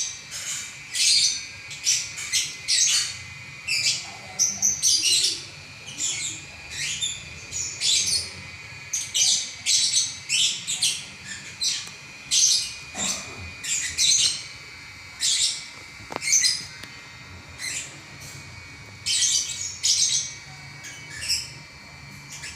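Lovebird singing a long, unbroken chattering song: rapid high chirps in bursts of about half a second to a second, with short gaps between.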